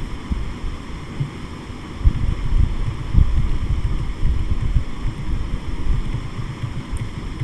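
Low, uneven rumbling noise on the microphone, getting stronger about two seconds in.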